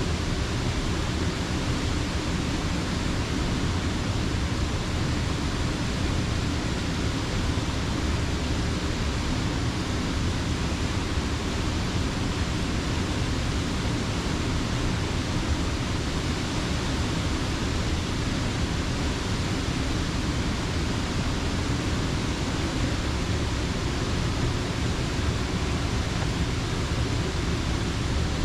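Creek water pouring over a mill dam, a steady, unbroken rush.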